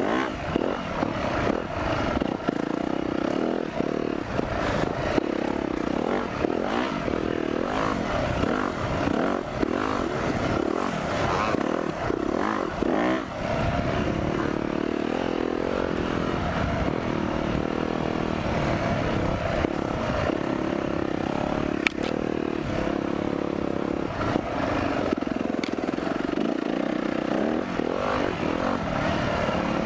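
Four-stroke motocross bike engine running under way, its pitch rising and falling with the throttle, with clattering and knocks from the bike throughout.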